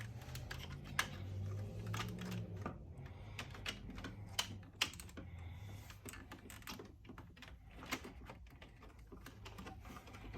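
Faint, irregular light clicks and taps of plastic housing parts being handled and fitted together, over a low steady hum.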